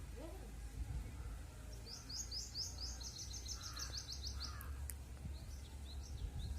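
A songbird singing a quick run of about fifteen high chirps, about five a second, then a few fainter chirps near the end, over a low steady hum.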